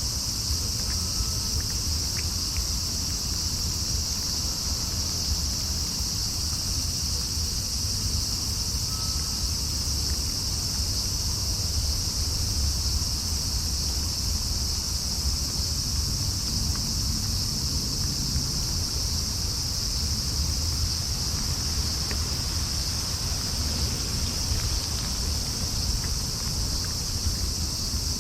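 Steady high-pitched chorus of night insects, likely crickets, over a constant low rumble of distant traffic or wind.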